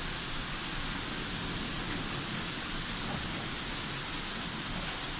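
Heavy thunderstorm downpour: a steady, even rush of rain.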